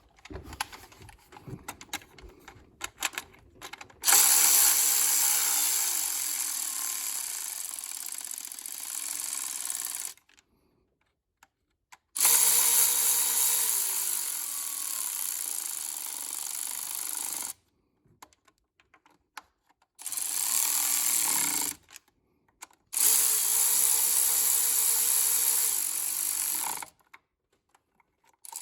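Handheld power driver running bolts down in four steady whirring runs of a few seconds each, with short pauses between, after some light clicking of parts and tools.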